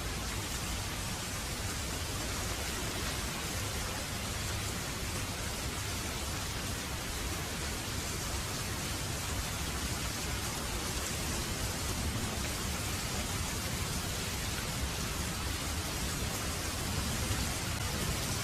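Heavy rain falling steadily in a dense, even hiss, with a low rumble of thunder starting to build near the end.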